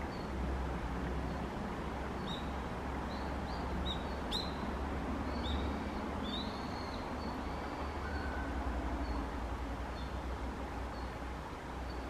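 Small birds chirping: short, high calls, several sliding downward, bunched in the middle, over a steady low rumble. One sharp click about four seconds in.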